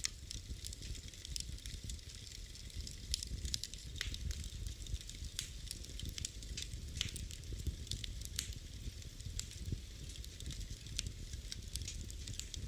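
Wood fire in a fireplace burning, with a low steady rumble and frequent sharp crackles and pops at irregular moments.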